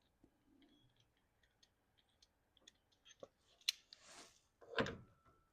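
Locking pliers (vise grip) being readjusted and handled: faint scattered metal clicks, a sharper click past the middle, then a single clack near the end as the jaws snap shut.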